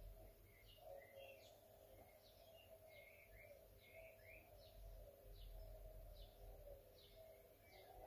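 Near silence, with faint birdsong: a steady run of short, quick chirps.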